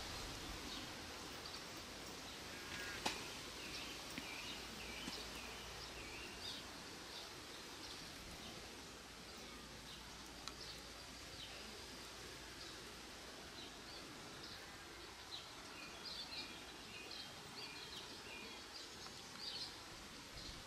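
Quiet field ambience with wild birds singing: runs of short high chirps about three seconds in and again near the end, and a single sharp tick about three seconds in.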